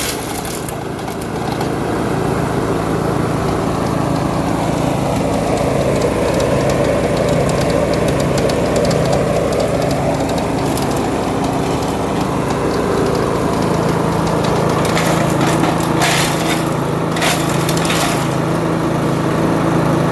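Engine-driven shredder with a built-in wood chipper running steadily under load, with a constant crunching and splintering of material being shredded. Several sharp, loud cracks come near the end as pieces are chipped.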